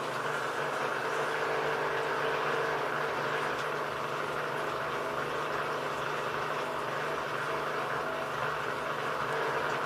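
ELIN A 100 E washing machine running steadily, a constant motor hum under an even whooshing noise.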